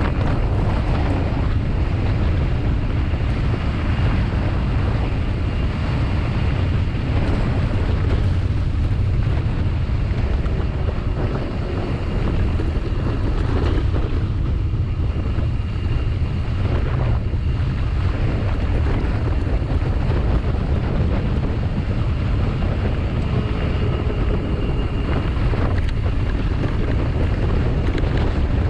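Wind buffeting the microphone of a camera on a moving bicycle: a loud, steady low rumble with a rushing hiss over it.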